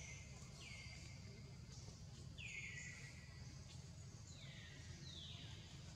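Faint forest bird calls: a short falling note repeated about every second and a half, over a low steady background rumble.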